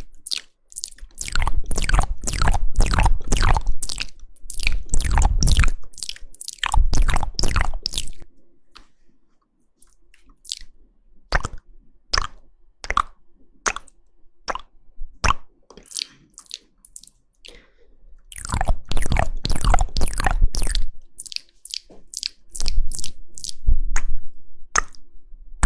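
ASMR mouth sounds close to the microphone: wet clicks and smacks of tongue and lips. They come in dense runs of rapid clicks, with a sparser stretch of single clicks near the middle.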